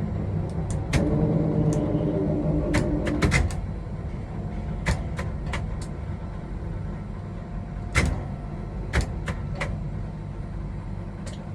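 Steady low machinery rumble, with a motor whine from about one to three and a half seconds in and scattered sharp clicks, loudest at about eight and nine seconds in.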